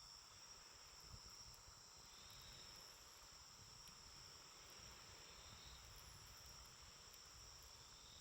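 Faint, steady high-pitched trilling of singing insects, with a few soft crackles from a wood campfire.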